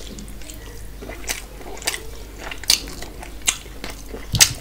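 Close-up chewing and wet lip-smacking of a person eating a mouthful of rice and mutton curry by hand, with five sharp mouth clicks spread through, the loudest near the end.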